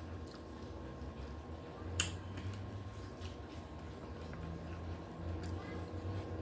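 A person chewing a piece of fried chicken with her mouth closed, soft wet mouth sounds with one sharp click about two seconds in and a few fainter ticks.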